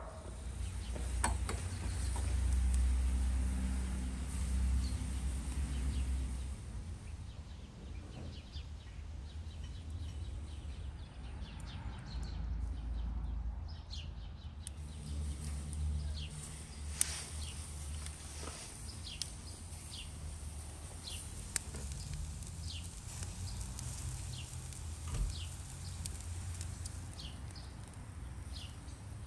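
Small birds chirping, short high chirps repeating through the second half, over a low rumble that is strongest in the first few seconds; two sharp clicks stand out about two-thirds of the way through.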